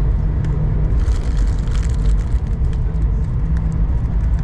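Cabin noise inside an Airbus A220-100 taxiing: a steady low rumble from the jet at taxi, with a brief swell of hiss about a second in.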